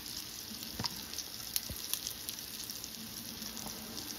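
Shrimp sizzling in butter and olive oil in a cast-iron skillet: a steady frying hiss with a few sharp clicks scattered through it.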